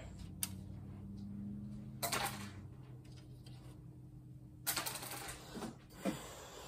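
Short bursts of clicking and clattering from tools and small parts being handled during a monitor teardown, over a steady low hum.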